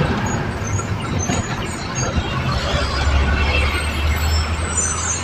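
Truck running along a highway: steady engine and road noise, with a low drone that grows stronger about three seconds in.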